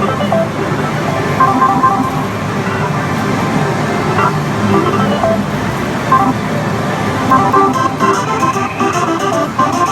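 Dense, loud din of a pachislot hall: a steady roar of many slot machines, with short electronic beeps and jingle tones scattered through it.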